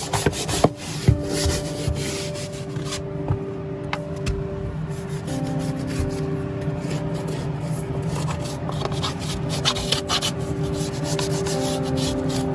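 Scraping and rubbing on wooden flooring, a run of uneven short scrapes and knocks as rotted, water-damaged floor material is worked loose by hand.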